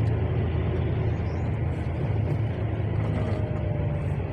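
Steady low rumble of a motor vehicle running, with road noise.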